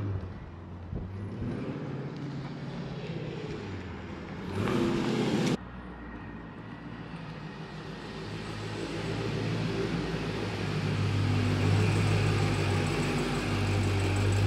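Supercharged 6.2-litre Hemi V8 of a Dodge Challenger Hellcat, running on a Direct Connection Stage 1 tune. It runs as the car pulls up, with a loud burst lasting about a second that cuts off suddenly about a third of the way in. After that it settles into a steady low idle that grows louder toward the end.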